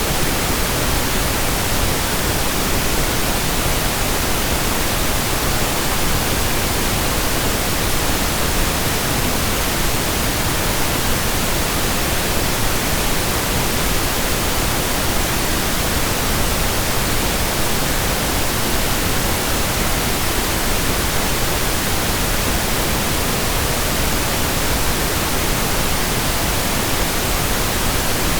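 Steady, unbroken pink noise: an even hiss spread across all pitches, with no change in level.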